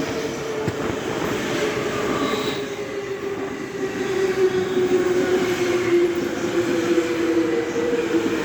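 E257 series electric train pulling into the station and slowing, rumbling on the rails with a whine that falls slowly in pitch as it brakes.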